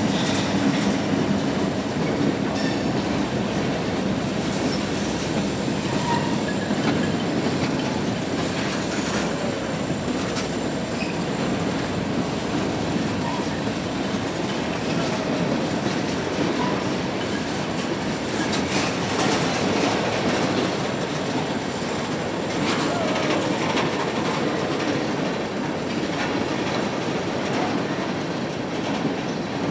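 Freight cars of a mixed freight train rolling past: steady rumble and clatter of steel wheels on rail, with a few faint, brief wheel squeals.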